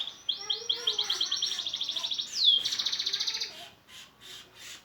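Domestic canary singing: fast trills of rapidly repeated high notes, broken about halfway by one quick downward swoop and followed by another trill. The song ends in a few softer, separate notes.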